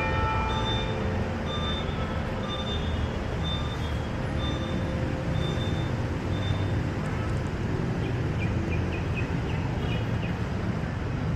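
City street traffic: vehicle engines running in a steady low rumble, with a high short beep repeating about once or twice a second through the first half.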